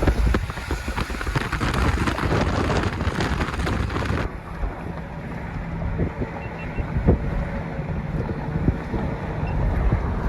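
Wind buffeting the microphone over the rumble and road noise of a moving vehicle. About four seconds in, the hiss drops off suddenly, leaving a lower, steadier rumble with a few knocks.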